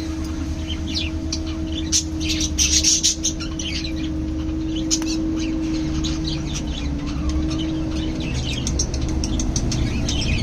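A flock of caged small parrots, budgerigars and lovebirds, chirping and chattering in many short, overlapping calls, busiest and loudest about two to three seconds in. A steady low hum runs underneath.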